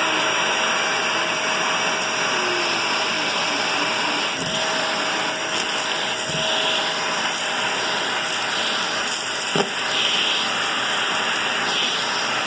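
Vacuum cleaner running steadily, with one sharp click about nine and a half seconds in.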